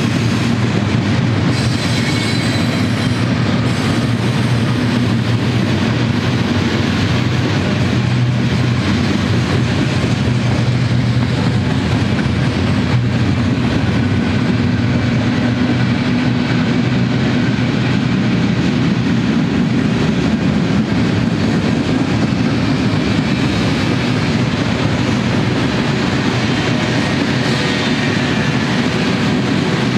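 Freight train cars rolling past: a steady, loud rumble and clatter of steel wheels on the rails.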